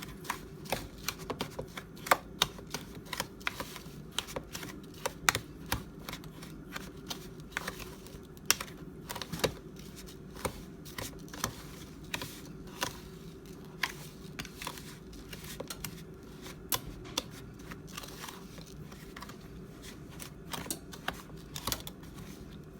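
A utensil stirring a dry barbecue rub of sugar and spices in a bowl, with irregular sharp clicks and taps against the bowl, a few a second, over a faint steady hum.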